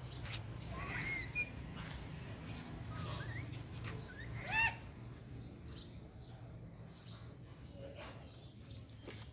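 Ringneck parakeet giving a few short chirping calls, the loudest a little past halfway, with light clicks between them and a steady low hum beneath.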